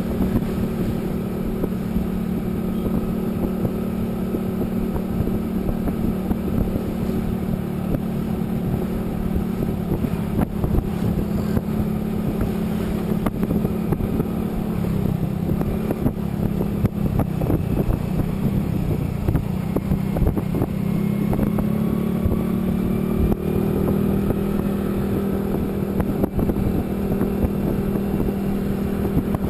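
A vehicle engine running at a fairly steady speed while driving, its pitch drifting slightly up and down, over constant road and wind noise.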